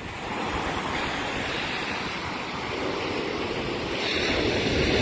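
Ocean surf washing up onto the beach, the rush of water swelling louder near the end, with strong wind buffeting the microphone as a low rumble.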